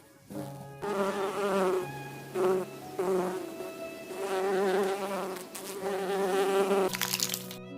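A flying insect buzzing in about five bursts of a wavering, droning hum broken by short pauses.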